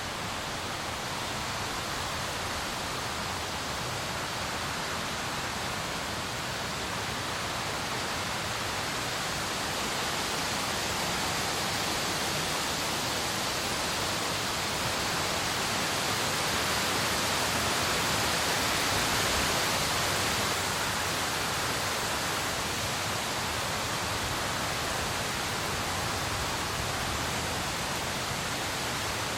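Steady rain falling, an even rushing hiss that swells slightly about two-thirds of the way through.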